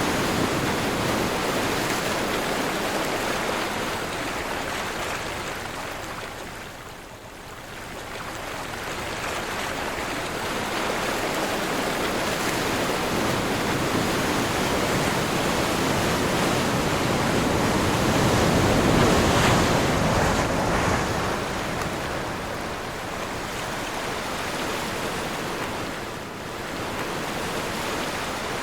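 Ocean surf washing ashore under a steady wind, with no voices or tones. It eases off about a quarter of the way in, then builds to its loudest about two-thirds through.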